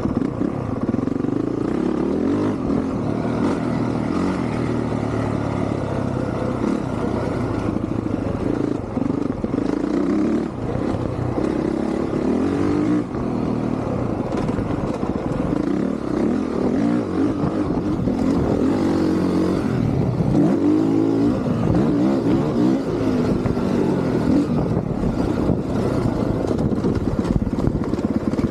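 Honda CRF450R dirt bike's four-stroke single-cylinder engine being ridden hard, its pitch rising and falling again and again as the throttle is opened and closed through the gears.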